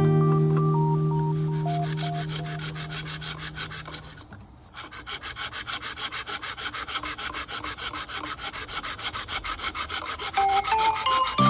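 A fast, even rasping of something being ground or rubbed, starting about halfway in after a music chord fades out.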